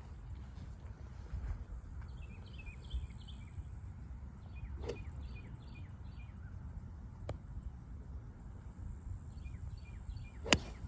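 A golf iron strikes the ball off the tee with one sharp, loud crack near the end. Two fainter clicks come earlier. Birds chirp repeatedly in short falling notes over a low wind rumble.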